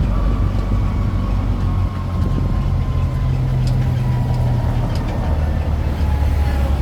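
Sightseeing tour train's engine running steadily while riding, with a low hum that shifts pitch a couple of times and a faint whine sliding slowly downward.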